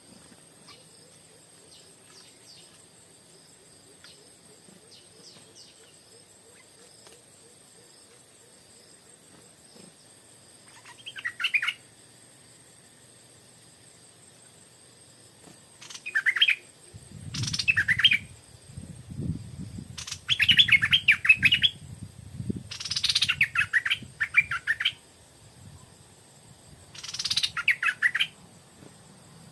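Stripe-throated bulbul singing loud, rich warbled phrases of a second or two each: one about eleven seconds in, then five more in quick succession over the last half. Fainter chirps of other birds come earlier, and a low rumbling noise runs underneath the middle phrases.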